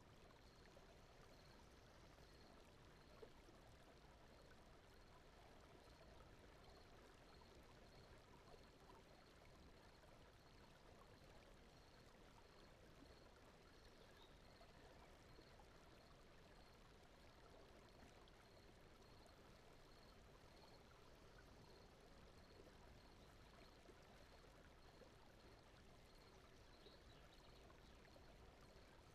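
Very faint, steady brown-noise bed with a soft running-water sound. A faint high chirp repeats about twice a second.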